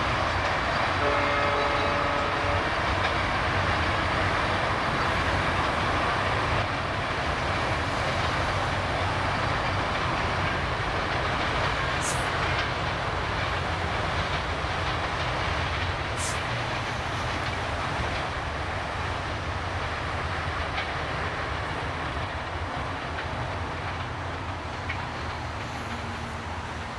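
Ekota Express passenger train, a rake of PT Inka coaches, rushing past at speed with a steady rumble and wheel noise on the rails. It slowly fades toward the end.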